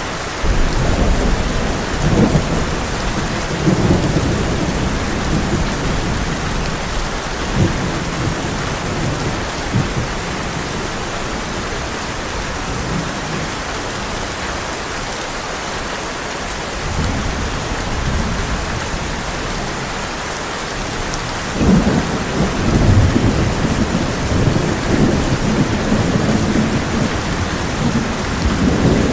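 Heavy rain falling steadily on a tin roof, with rolling thunder rumbling at the start and again in the last quarter.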